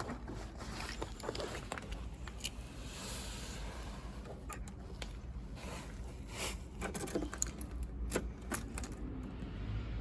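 Vespa Sprint S's 125cc single-cylinder i-Get engine running at a steady idle, with scattered sharp clicks and light rattling over it.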